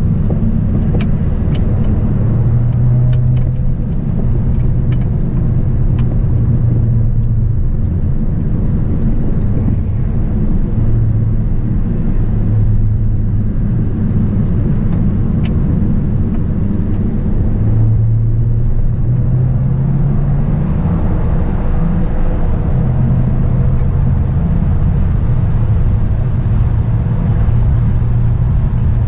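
Volkswagen Golf Variant's engine heard from inside the cabin under hard acceleration on track, its note climbing and dropping back at gear changes several times. A few sharp clicks come in the first few seconds and once midway.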